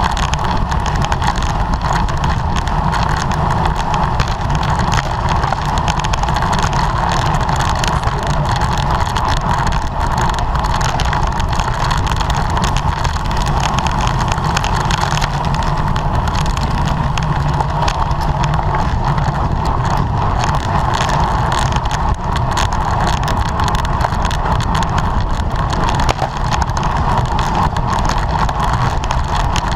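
Steady rush of wind and road noise on the microphone of a camera riding along with a racing bicycle, with a constant hum in the middle range.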